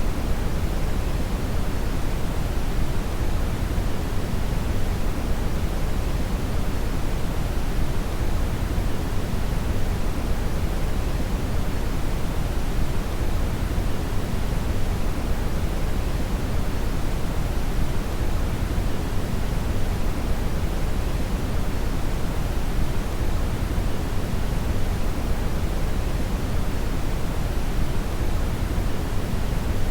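Steady synthetic brown noise: an even, deep hiss strongest in the low end and falling off toward the highs, unchanging throughout.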